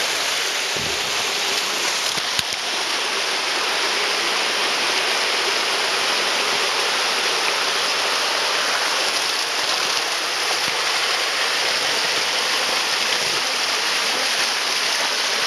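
Waterfall rushing steadily, a dense, even roar of falling and splashing water close to the microphone.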